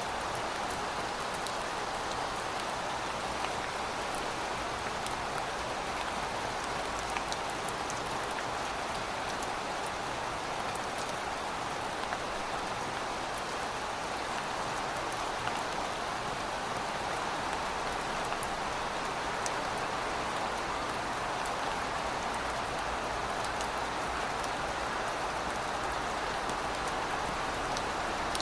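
Steady rain falling: an even, continuous hiss with scattered faint drop ticks.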